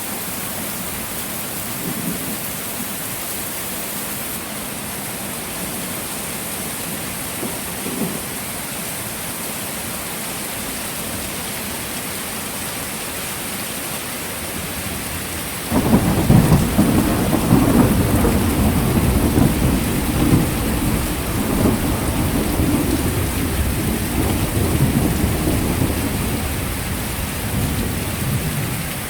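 Heavy rain falling steadily. About halfway through a loud rumble of thunder breaks in suddenly and rolls on for over ten seconds, slowly dying down near the end.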